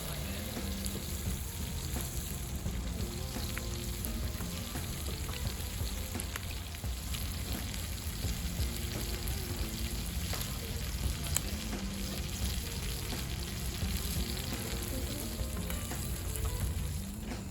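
Food sizzling over a wood fire in a mesh fire pit: a steady frying hiss with many small scattered crackles.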